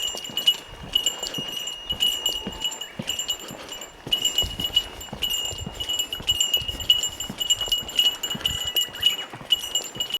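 A small metal bell jingling again and again at an uneven pace, swinging with a hiker's stride, as a bear bell does on a mountain trail, over soft footfalls. It cuts off suddenly at the end.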